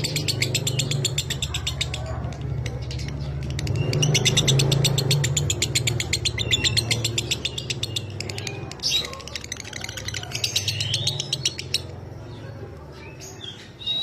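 Lovebird chattering in very rapid, dry trills (the long 'ngekek'), in several runs broken by short pauses, over a steady low hum.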